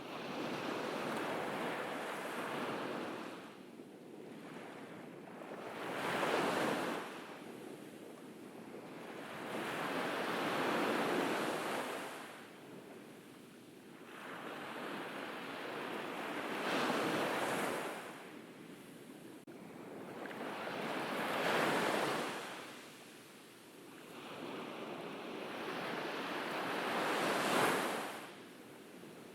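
Ocean surf on a beach: waves break and wash in one after another, each swelling up and then drawing back, about every five seconds.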